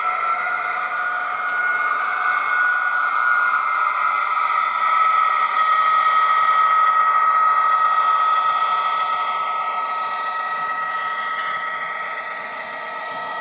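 Model railway locomotive running on the track: a steady whine from its electric motor and gearing over a light rattle of wheels on rail, growing louder toward the middle and then fading as it passes.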